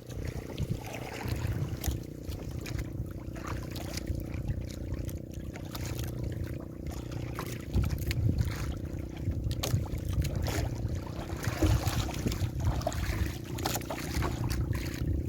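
A small fishing boat's engine running steadily, with water splashing and sloshing against the hull in choppy waves.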